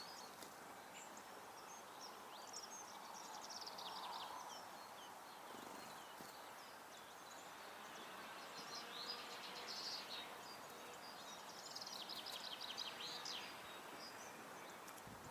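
Garden songbirds singing faintly in a few short, high phrases, one ending in a rapid run of repeated notes, over a steady outdoor background hiss.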